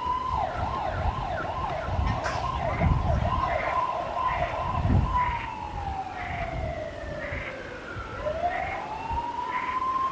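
Emergency vehicle siren. It rises, switches to a fast yelp for the first few seconds, then falls slowly in a long wail and rises again near the end.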